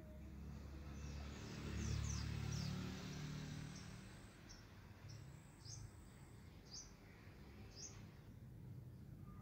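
Small birds chirping in the background: short high chirps, a cluster about one to three seconds in and then single ones every second or so. Under them runs a low rumble that swells about two seconds in and fades out by four seconds.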